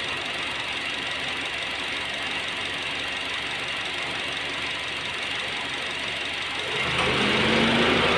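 Honda Jazz engine idling steadily. About seven seconds in, a louder steady hum joins as the air-conditioning cycles on and loads the engine, a test for the misfire that had shown up when the aircon switched on; no shaking is noted.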